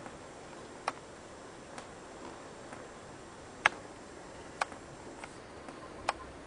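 Rainwater dripping indoors: about six sharp drops at irregular intervals, the loudest a little past the middle, over a steady hiss.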